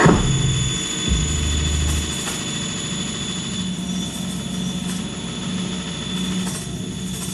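A low droning hum that steps to a new pitch a few times, with a thin steady high whine and a light hiss over it: a noise drone from a live sound performance.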